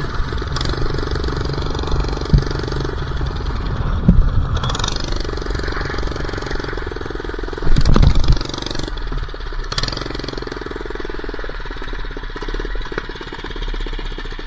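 Minibike's small engine running as it is ridden, the pitch rising and falling with the throttle, with wind noise on the microphone. A loud rattling knock comes about eight seconds in, and the engine eases off near the end.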